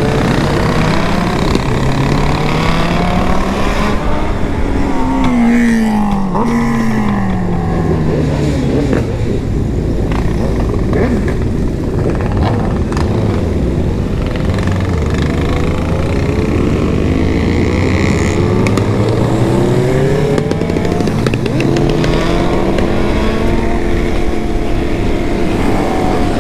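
Sport motorcycle engines riding in a group, one engine's pitch climbing for the first five or six seconds, then falling and running low and steady. It climbs again around eighteen to twenty seconds in and holds a steady higher note near the end, over a constant rush of noise.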